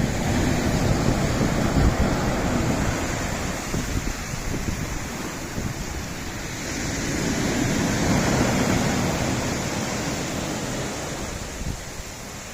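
Sea waves washing on a rocky shore, swelling at the start and again about halfway through, then easing. Wind buffets the microphone with a low rumble.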